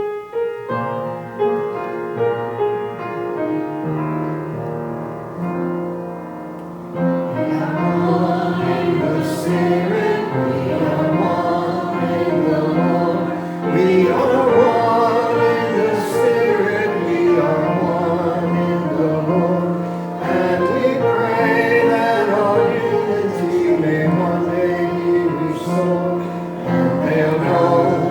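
A piano plays a short introduction to a hymn, and about seven seconds in the congregation joins in, singing together with the piano.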